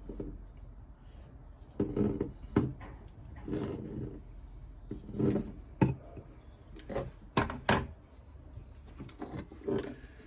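Hands handling a car door lock mechanism and its operating cables: a string of irregular small clicks, knocks and rubbing as parts are unclipped and turned.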